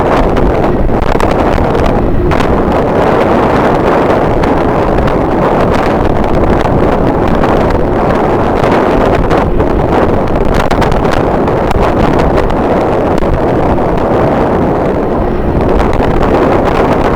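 Strong wind buffeting the microphone: a loud, steady rushing noise with no breaks.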